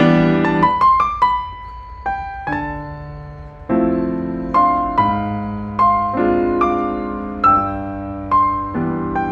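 Background music: a slow piano piece, single notes of a melody over sustained chords, each note struck and left to fade.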